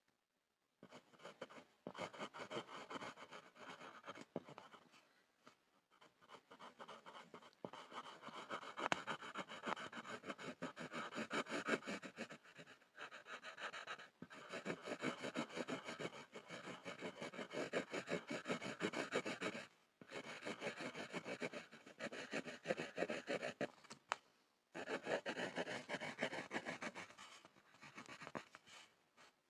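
Pencil scribbling on a wooden board: fast back-and-forth scratching strokes of graphite on wood, in long runs with short pauses.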